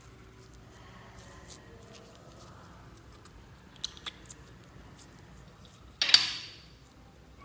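Slime being handled and mixed by hand: faint sticky clicks, two sharper clicks about four seconds in, then a loud pop about six seconds in that trails off over about half a second.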